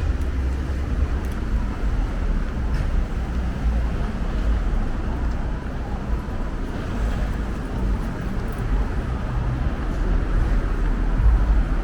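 City street ambience: a steady traffic rumble with a deep low hum.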